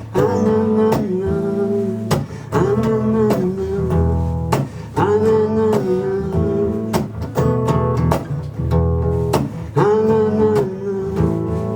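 Live band playing an instrumental break: strummed guitar with bass under a held melodic lead line, in a steady rhythm.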